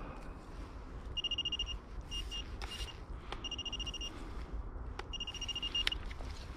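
Minelab Vanquish 440 metal detector beeping in five short bursts of a high, slightly warbling tone as the coil sweeps over a target. A few sharp clicks are heard between the beeps.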